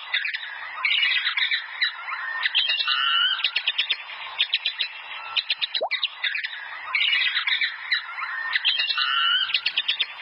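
Bats squeaking and chattering: dense shrill squeaks mixed with rapid clicks. The same run of calls starts over about six seconds in.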